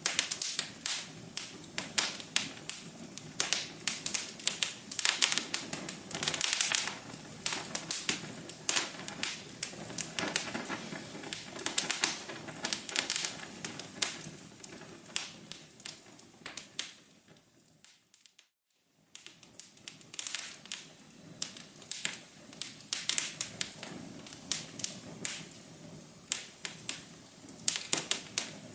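Wood fire crackling in a fireplace: dense, irregular pops and snaps over a soft hiss. About two-thirds of the way through it fades out to near silence for about a second, then fades back in and carries on crackling.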